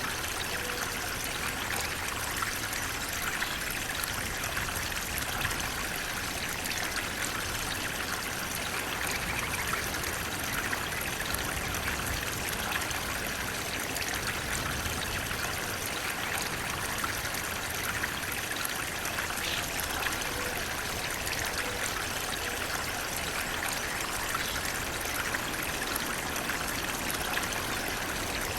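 Flowing water running in a steady, even rush.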